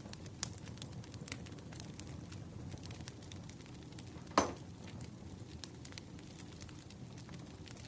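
Firewood burning: a steady low rush with scattered sharp crackles and one louder pop about four and a half seconds in.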